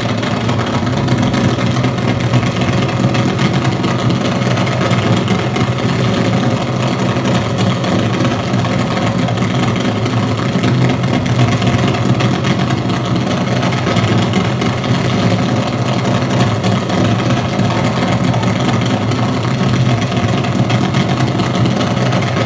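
Electroacoustic noise performance: a loud, steady, dense wall of electronic noise with a strong low hum, sounding much like an idling engine.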